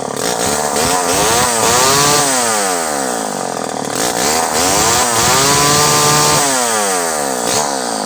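Vintage Pioneer 1200 58cc two-stroke chainsaw running and being revved up and down several times, held at high revs for about a second past the middle before dropping back.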